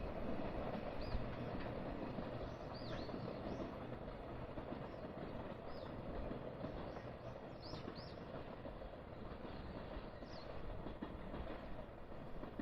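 An electric train running on the line, its steady rumble slowly fading, with a few short high chirps over it.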